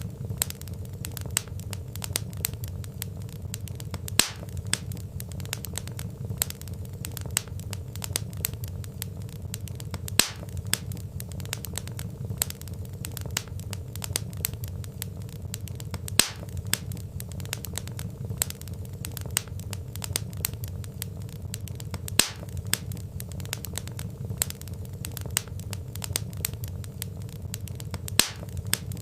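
Wood fire burning in a fireplace: a steady low rumble of flames under dense, fine crackling, with a louder pop from the logs about every six seconds.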